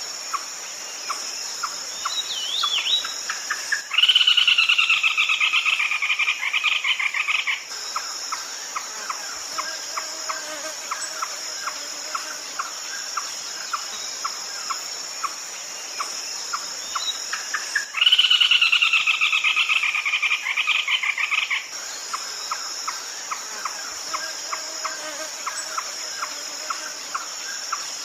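Red-legged crake calling: a loud, rapid pulsed series about three and a half seconds long that falls slightly in pitch, given twice about fourteen seconds apart. Between the calls, a steady high insect drone and regular short chirps continue.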